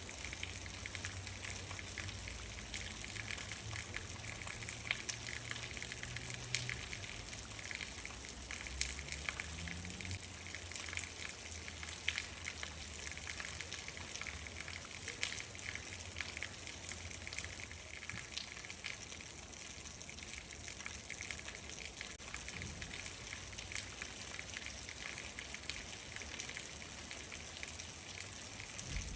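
Steady rain falling, with many sharp ticks of individual drops striking close by. A low rumble runs under it for the first ten seconds or so, then fades.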